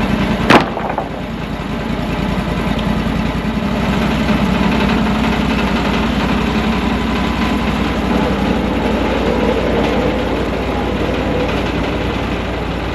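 MechMaxx sawmill's engine running steadily, with one sharp knock about half a second in.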